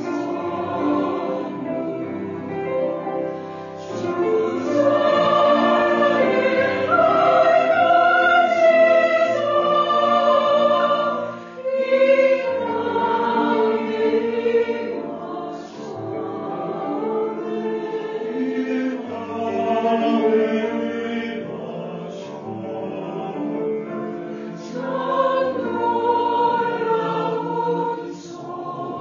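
Church choir singing a Christmas hymn in Korean, in long held phrases, with a brief break about twelve seconds in.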